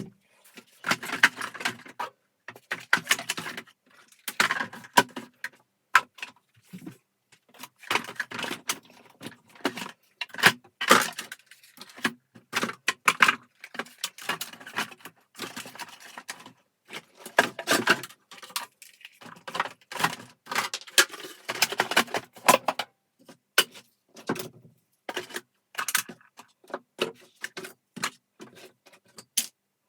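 Irregular clicking, clattering and jingly rattling of small hard parts being handled and fitted together, as in taking apart and reassembling a vacuum cleaner.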